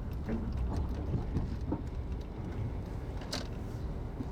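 Car driving, heard from inside the cabin: a steady low road-and-engine rumble with a few light clicks and rattles, the clearest about three seconds in.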